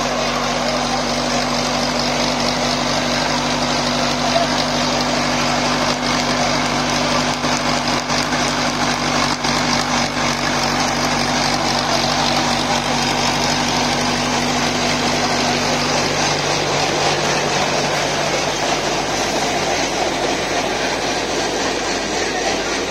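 Sonalika 60 hp Tiger tractor's common-rail diesel engine running steadily under load, with a rotavator churning soil behind it. The engine note shifts slightly about two-thirds of the way through.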